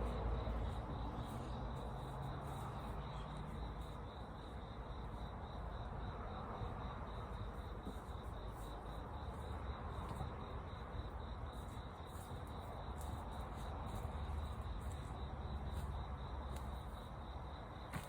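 Crickets chirping in a steady high trill over a low rumble, with faint scattered clicks.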